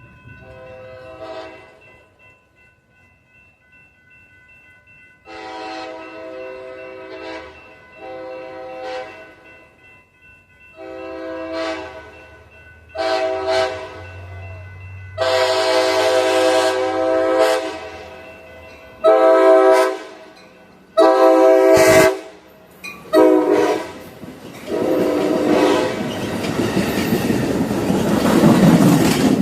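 A passenger train's multi-chime horn sounding a long series of blasts, some long and some short, growing louder as the train approaches. In the last few seconds the train passes with a rising rumble and wheel clatter.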